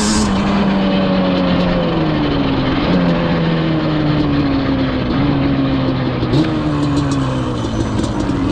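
Yamaha Banshee's twin-cylinder two-stroke engine running while the quad is ridden, held at fairly steady revs. Its pitch drifts slowly down, with small jumps back up about three and five seconds in.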